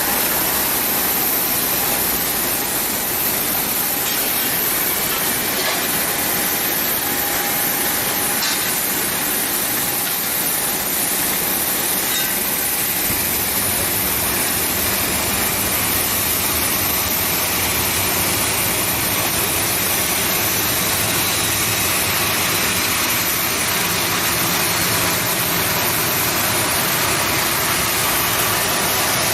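Boeing 737-800 jet airliner running on pushback: a steady jet noise with a thin, high, constant whine over it.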